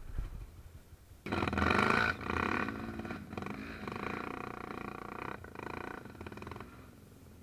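Off-road vehicle engine revving, starting suddenly about a second in, rising and falling in pitch, then easing off near the end.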